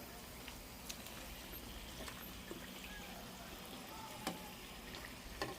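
Dried fish frying in hot oil in an electric pan: a faint steady sizzle with scattered small pops, the sharpest about four seconds in and again near the end.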